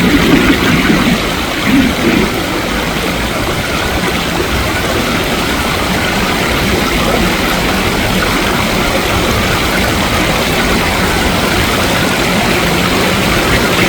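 Steady rush of water flowing in a small stream, with a low rumble underneath.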